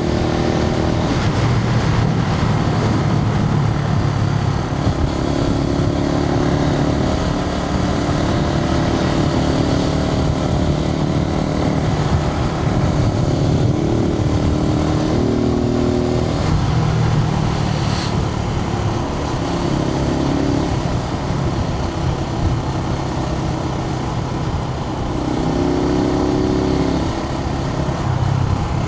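Suzuki TU250X's air-cooled single-cylinder engine running on the move, heard from inside the rider's helmet over a steady rush of wind noise. The engine's pitch rises and falls several times with throttle and gear changes.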